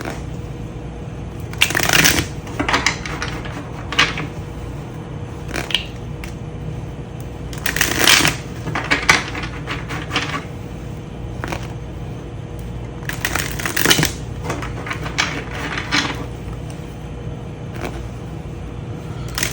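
Tarot cards being shuffled by hand: short bursts of riffling, crackling card noise coming every second or two, over a steady low background hum.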